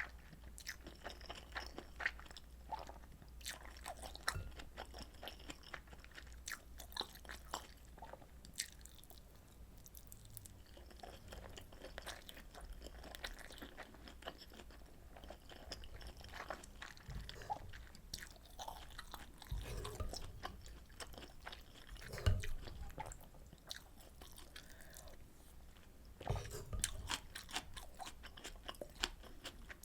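Close-miked eating: a person biting and chewing rolled omelet and pork kimchi stew, with many small wet clicks and crunches. A few low knocks stand out, the loudest about three-quarters of the way through.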